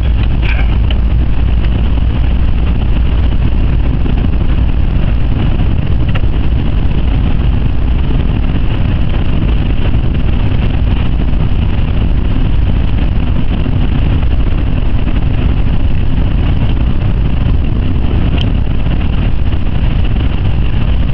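Jaguar XJ's 5.0-litre supercharged V8 driving, heard from inside the cabin: a steady, loud rumble of engine, tyre and wind noise that holds level throughout.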